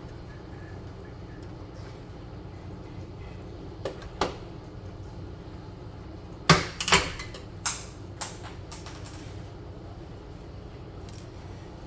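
Scattered sharp clicks and knocks of hard plastic and tools being handled, the loudest cluster about halfway through, over a steady low background hum.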